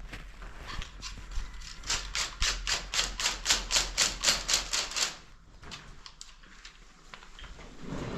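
Hand tool working in quick, even strokes, about five a second, for about three seconds in the middle, with scattered lighter clicks around them.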